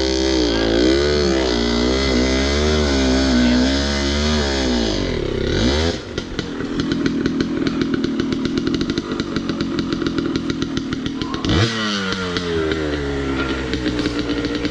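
Dirt bike engine revving up and down in repeated swells, dropping about six seconds in to a low steady putter, then a sharp rev near twelve seconds and uneven revving after it.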